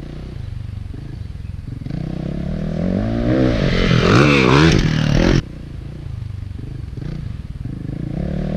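Motocross dirt bike engine revving up and down through the gears as the bike rides over jumps, growing louder to a peak about four to five seconds in. The sound cuts off abruptly at that point, and a quieter run of the engine builds up again toward the end.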